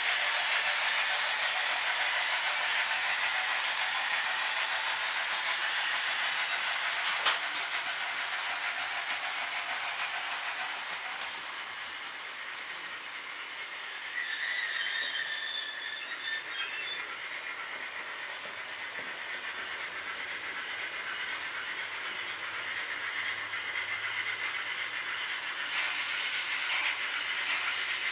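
H0-scale model trains running on the layout's track: a steady rolling hiss of small wheels on rails. There is a sharp click about seven seconds in, and a brief high squeal about halfway through.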